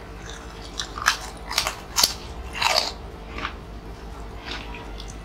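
Crunchy fried snacks being bitten and chewed close to the microphone: several crisp, irregular crunches, the loudest about two and a half seconds in.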